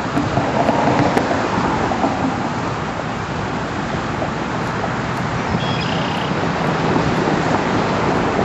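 Steady rushing noise of a moving car, road and engine noise mixed with wind buffeting the microphone.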